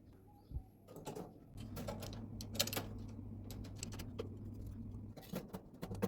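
Light clicks and knocks of small objects being handled, over a steady low hum that starts about a second and a half in and stops near the end.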